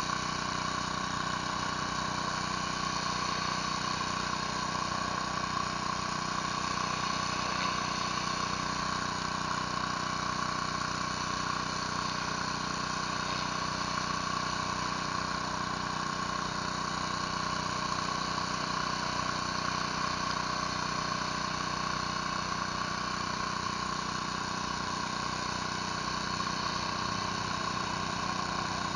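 Pressure washer engine running steadily at a constant speed, with no change in pitch or level.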